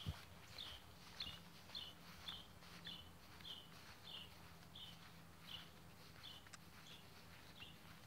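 A small bird calling faintly, one short high chirp repeated at a steady pace, a little under two a second.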